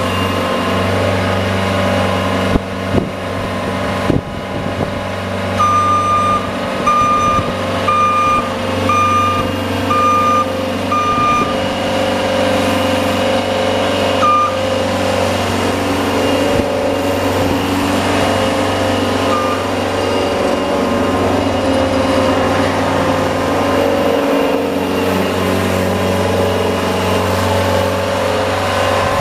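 Snowplow vehicle's engine running steadily. A reversing alarm beeps six times, about once a second, from about six seconds in to about twelve seconds in.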